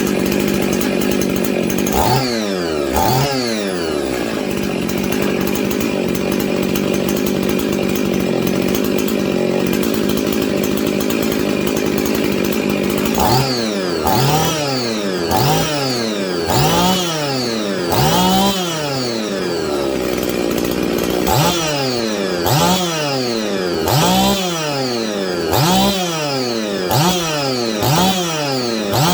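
Husqvarna 55 two-stroke chainsaw running at a steady speed, blipped twice about two seconds in, then revved up and back down over and over, about once every second and a half, through the second half. It keeps running between the revs while being tested for a fault that makes it cut off.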